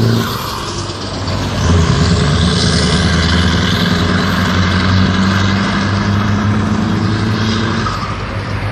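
Scania R500's V8 diesel engine running under load with a deep, steady note. It dips briefly just after the start, comes back in strongly just under two seconds in, and eases off a little near the end.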